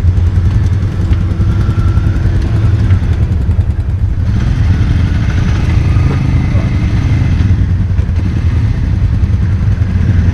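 ATV engine running steadily with a deep, constant hum.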